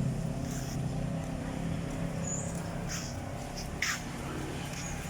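A motor vehicle's engine running steadily, its low hum easing off at the start, with a few short sharp clicks about three and four seconds in.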